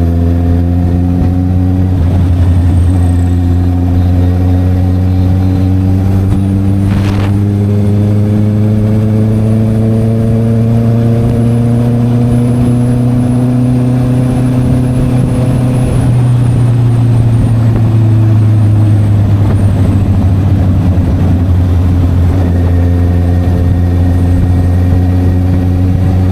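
Honda CB650R's inline-four engine with an SC Project exhaust, running under way. The engine note climbs slowly as the bike gains speed, drops back for a few seconds, then holds steady.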